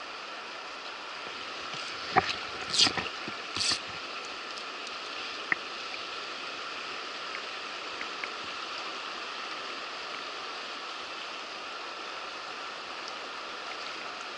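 Steady rush of river water. A sharp click about two seconds in, followed by two short hissing bursts, stands out over it.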